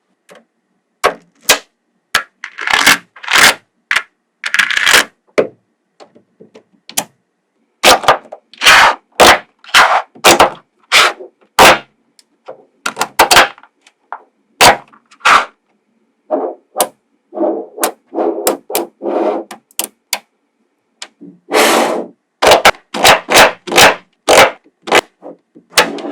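Small magnetic balls clicking and snapping together, with short rattling scrapes as they roll and slide against each other, in quick irregular clusters.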